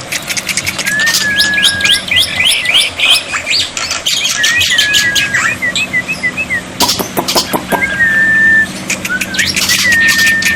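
Black-winged starling (jalak putih) calling: fast runs of sharp falling chirps mixed with short level whistles. Bursts of harsh, noisy chatter break in about two-thirds of the way through and again near the end.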